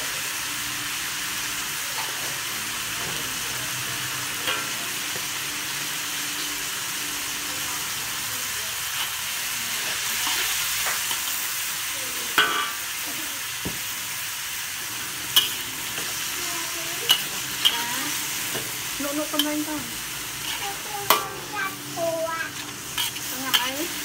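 Minced meat and garlic sizzling steadily in a wok, with a metal spatula scraping and clacking against the pan as the mixture is stirred and turned. The sharp clacks start about halfway through and come more often near the end.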